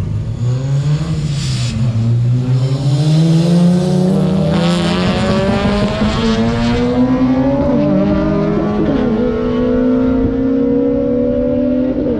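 Car engine at full throttle during a roll race, its pitch climbing steadily for about ten seconds, with a couple of brief dips late on.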